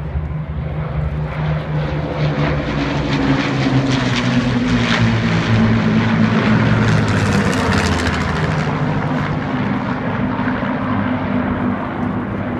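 Avro Lancaster's four Rolls-Royce Merlin V12 piston engines droning as the bomber flies past. The sound swells to a peak about halfway through, the engine note drops in pitch as it passes, and it then eases off slightly.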